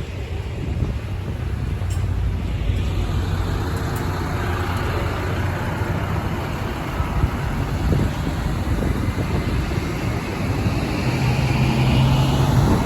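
Bus engine running close by, a steady low hum, with road noise swelling from about three seconds in.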